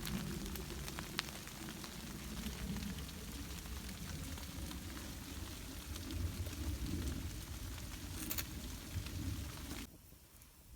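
Freezing rain falling steadily in a hissing patter, with scattered sharp crackles and a low rumble underneath; the sound drops away abruptly near the end.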